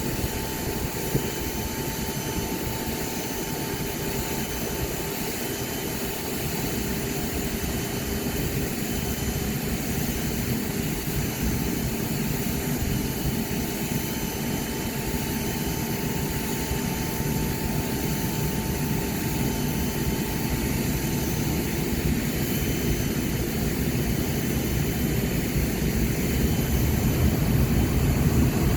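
Jet airliner engines on approach, a steady whining hum that grows slowly louder as the aircraft comes closer.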